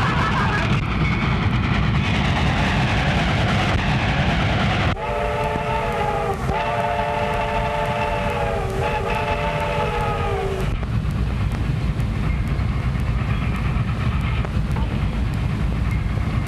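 Train running with a steady rattling rumble. Partway through, its chime whistle sounds three long blasts in close succession.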